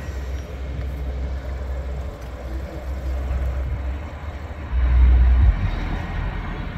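Norfolk Southern tank car freight train rolling away down the track, its sound faint and fading. A low rumble swells briefly about five seconds in.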